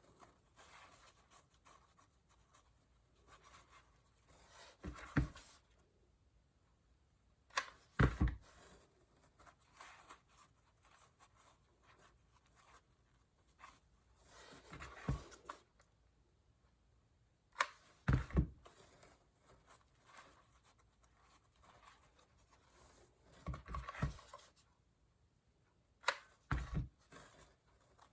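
Hands working craft materials on a tabletop: scratchy rustling and handling with short thumps every few seconds, and a longer rustle about halfway through.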